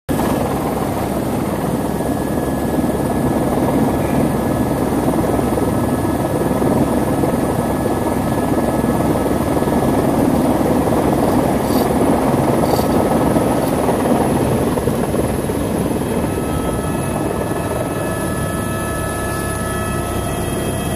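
Helicopter rotor and engine running loud and steady through takeoff from a glacier. The sound eases slightly over the last few seconds.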